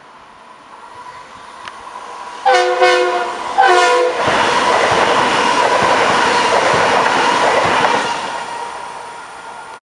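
Shore Line East M8 electric multiple-unit train sounding two short blasts of its chime horn as it approaches, then passing close by with a loud rush of wheel and rail noise that fades as it goes. The sound cuts off suddenly just before the end.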